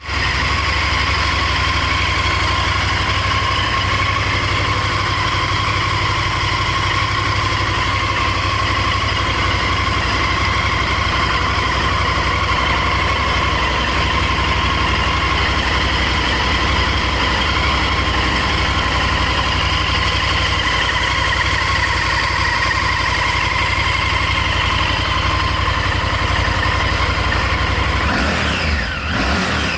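Honda Varadero 1000's V-twin engine idling steadily, with a brief sliding change in pitch near the end.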